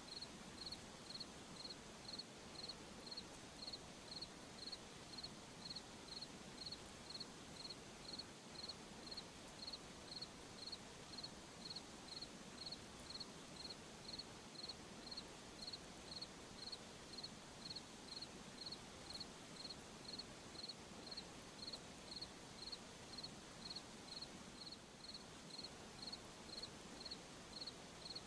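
A cricket chirping steadily and evenly, high-pitched, at about two chirps a second, over a faint even hiss.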